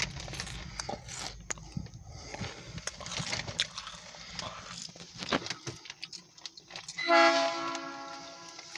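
Freight train rolling past, its wheels clicking and clanking over the rail joints under a fading low rumble. About seven seconds in, the locomotive horn sounds one short blast, the loudest sound.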